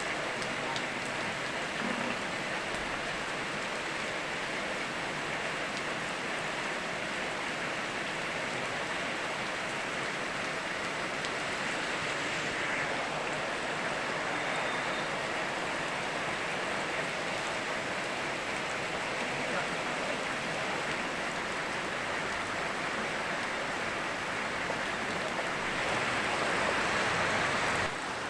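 Steady rain mixed with the rush of a flowing river, an even hiss with no distinct drops or pauses. It swells a little near the end, then falls back suddenly.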